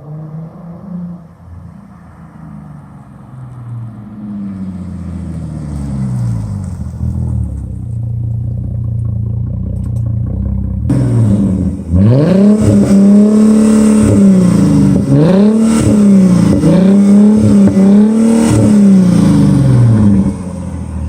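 Mercedes-Benz C32 AMG's supercharged V6 exhaust being revved. It starts quieter with slow rises and falls in pitch, then about halfway turns much louder with a quick series of about six revs, each climbing and dropping back.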